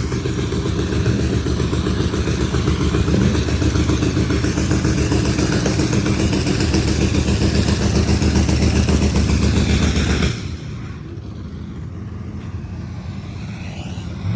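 Drag race car engine running loud and steady with a rapid firing rumble, warming up in the pits. About ten seconds in it drops away abruptly, leaving quieter engine noise in the background.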